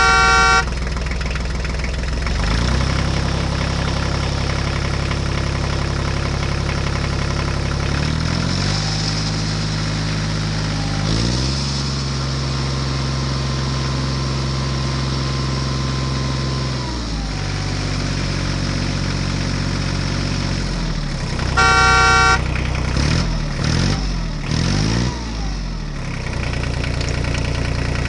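Vehicle engine sound effect running steadily, its pitch stepping up and down a few times. A short horn honk sounds at the start and again about 22 seconds in, followed by a few quick rising and falling revs.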